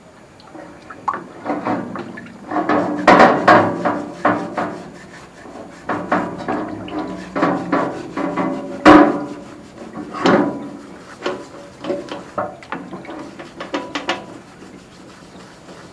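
Pistons being brushed and handled in a tank of diesel: irregular scrubbing and scraping with knocks, the sharpest about nine seconds in.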